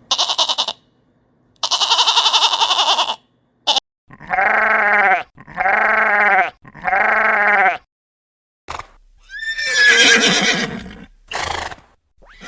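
A string of short animal calls cut one after another. First come two buzzy, rapidly pulsed calls, then three evenly spaced calls of about a second each that rise and fall in pitch, then a longer call that rises and turns rough near the end.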